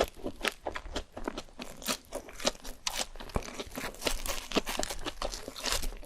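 Close-up crunching and chewing of crispy fried food: a dense, irregular run of sharp crackles from bites into a crisp crust.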